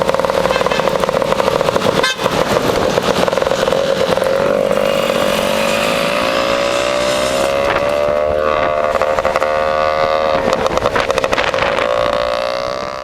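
Lambretta two-stroke scooter with an AF reverse-cone exhaust running under way. The note drops briefly about two seconds in, then rises and falls in pitch through the middle, and cuts off suddenly at the end.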